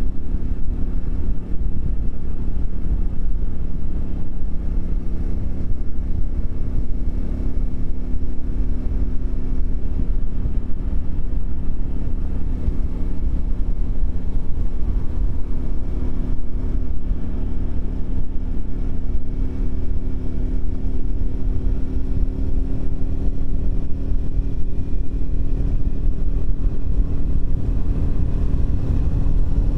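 Triumph Speed 400's single-cylinder engine running under way, its pitch climbing slowly through the second half as the bike gathers speed, over a steady low rumble of wind on the microphone.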